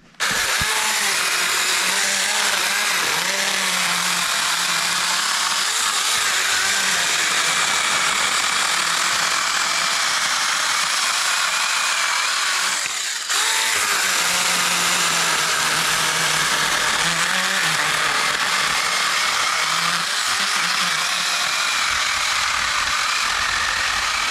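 Seesii CH600 cordless electric mini chainsaw running flat out, its chain cutting into a tree trunk for a felling cut. It cuts out for a moment about halfway through, then starts again and keeps cutting.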